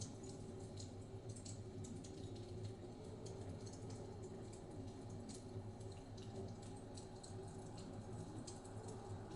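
Wood fire crackling in a fireplace, with many irregular small pops and snaps over a low, steady rumble.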